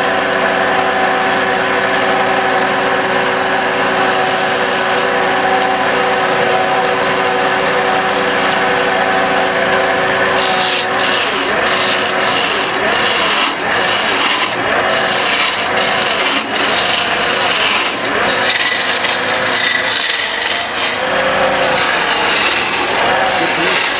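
Wood lathe running with a steady motor hum, then from about ten seconds in a hand tool scraping and cutting the spinning wood in uneven strokes.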